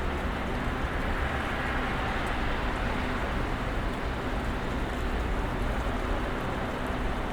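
Snowstorm ambience: a steady, even rush of noise with a low rumble underneath and a faint steady hum, unchanging throughout.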